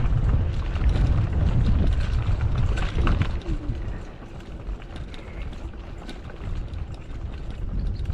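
Wind buffeting the microphone over the rumble and rattle of a mountain bike rolling along, with scattered clicks. The rumble is heavy for the first three and a half seconds, then eases.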